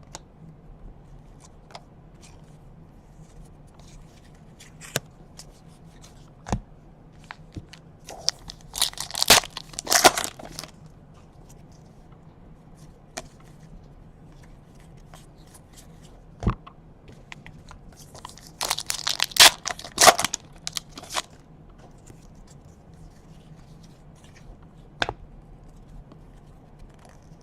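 Trading-card pack wrappers being torn open, two bursts of tearing and crinkling about ten seconds apart, with scattered small clicks and taps of cards being handled between them.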